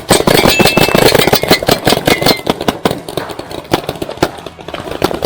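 Several paintball markers firing rapidly together: a dense, fast clatter of sharp pops, many shots a second, thinning a little after about three seconds.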